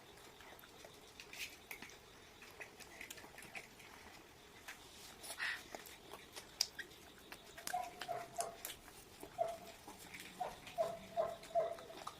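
Quiet eating sounds: chewing and small scattered clicks. From about eight seconds in, a run of short, repeated high notes, about two a second.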